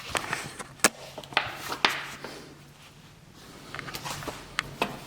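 Paper manuals and booklets being handled: scattered light taps and rustles as they are picked up, moved and set down.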